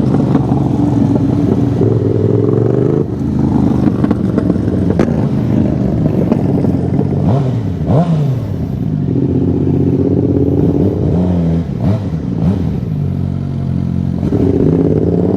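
Sportbike engine running loud with its exhaust removed, heard from the rider's helmet camera at road speed. The engine's pitch steps up and down a few times, with a quick rise and fall about eight seconds in.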